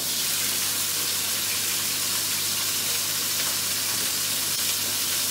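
Chicken drumsticks sizzling steadily in hot sunflower oil in a frying pan as they are turned with tongs, with a steady low hum underneath.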